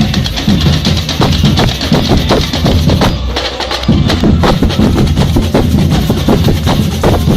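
Carnival batucada drum corps playing a fast, dense samba rhythm. The deep bass drums drop out for a moment about halfway through, then come back in with the full ensemble.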